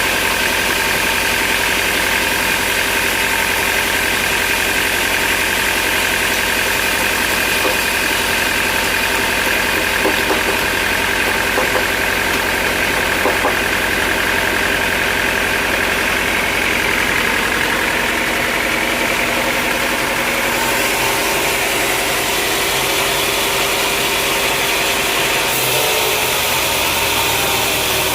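Sawmill machinery running: a steady, loud mechanical drone with a high, even whine over it, the low hum falling away near the end.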